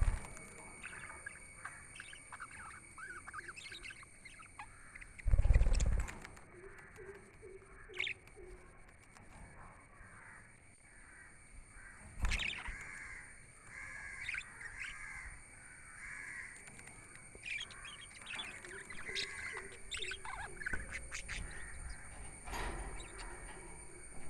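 Pet budgerigars chirping and warbling in many short, quick chirps, with a loud thump about five seconds in and a smaller one about twelve seconds in.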